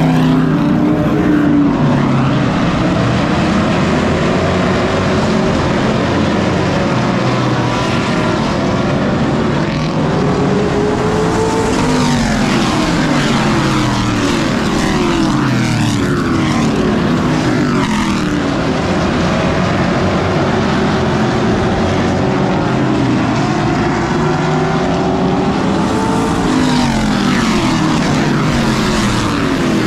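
Pro racing truck engines running at race speed, their pitch repeatedly climbing and dropping as they accelerate and lift off around the short oval.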